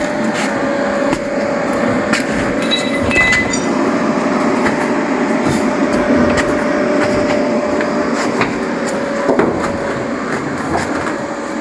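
Angle grinder with a cut-off wheel cutting through a steel bar, a steady grinding noise over the motor's constant whine, with scattered small clicks.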